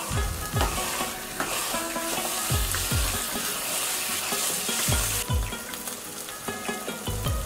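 Grated carrots sizzling in a black wok while a wooden spatula stirs them, each pass of the spatula a low scraping sweep, coming in pairs about every two seconds. The sizzle hiss drops off abruptly about five seconds in.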